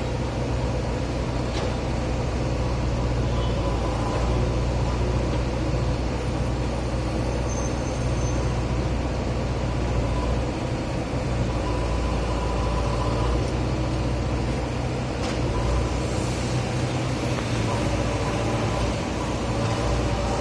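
Diesel engine of a JCB backhoe loader running steadily while it digs, a constant low rumble with a few faint clicks over it.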